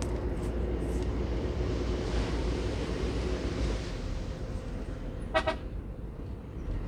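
Steady engine and road rumble of a moving car, with one short car-horn toot about five seconds in.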